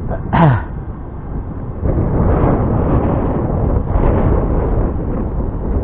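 Strong wind buffeting the microphone in loud, low gusts, growing heavier from about two seconds in. A short falling whine sounds about half a second in.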